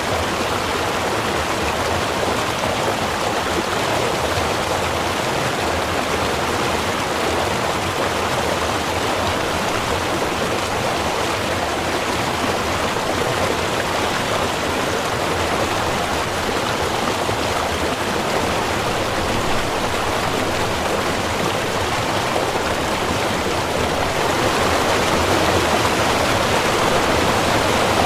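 A small river running, a steady, even rush of water that grows a little louder near the end.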